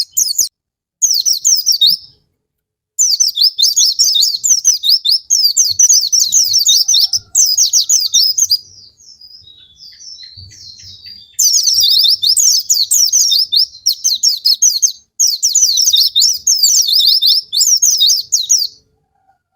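White-eye (pleci) song: long, fast runs of rapid, high, falling notes in phrases several seconds long. There are short pauses, and a longer stretch of soft scattered calls about halfway through.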